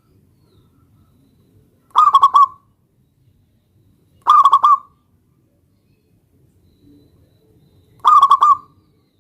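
Zebra dove (perkutut) cooing: three short calls of quick rolling notes, spaced a few seconds apart.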